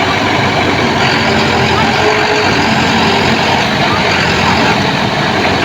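Heavy diesel engine running steadily and loudly, with some voices mixed in.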